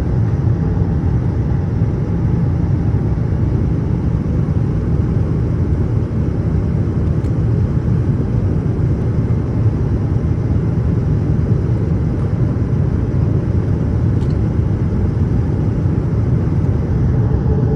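Steady cabin noise of a Boeing 787-8 airliner in flight: an even, unbroken low rumble.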